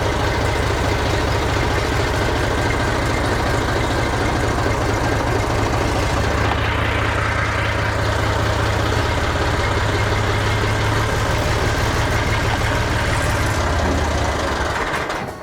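Massey Ferguson MF230 tractor engine running steadily on its first start after being revived from a non-running state, with a strong low rumble. The sound drops away near the end.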